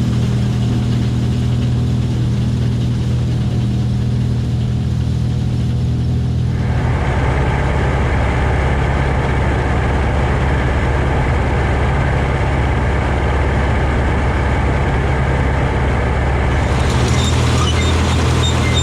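Diesel engine of a DON-1500B combine harvester running steadily. About six and a half seconds in, a louder, even rushing noise joins it and carries on.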